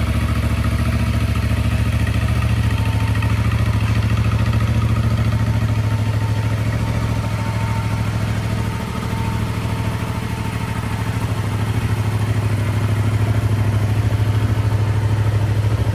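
Yamaha MT-07's 689 cc parallel-twin engine idling steadily, a little quieter for a few seconds midway.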